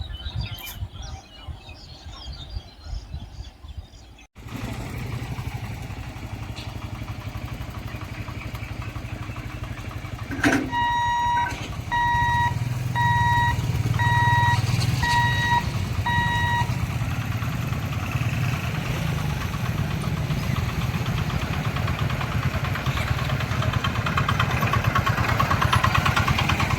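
A vehicle engine running steadily, after a short quiet stretch with faint bird chirps that ends abruptly about four seconds in. About halfway through, a series of six evenly spaced electronic beeps sounds, roughly one a second, and the rumble grows louder toward the end.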